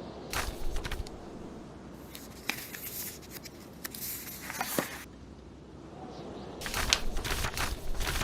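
Paper book pages turning and rustling three times over a steady low rumble of wind and fireplace.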